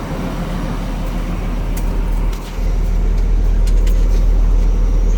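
Cummins ISM inline-six diesel engine of a Kenworth T800 truck idling steadily; the sound grows louder about two and a half seconds in.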